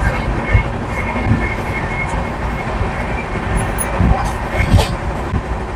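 Passenger train running: a steady low rumble with a few sharp knocks scattered through it.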